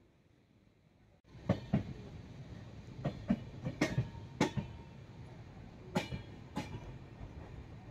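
Express train running on the rails, starting abruptly about a second in: a steady rumble with the wheels clacking over rail joints, often in pairs.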